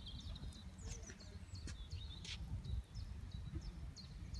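Gusting wind rumbling over the microphone, with small birds chirping in quick, repeated short calls.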